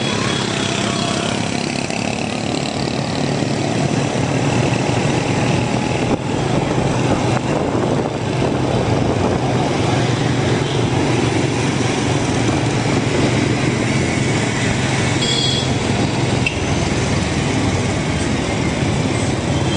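Steady noise of a motorbike ride in town traffic: a motorbike engine running under a dense wash of road and traffic noise. A short high-pitched tone sounds briefly about fifteen seconds in.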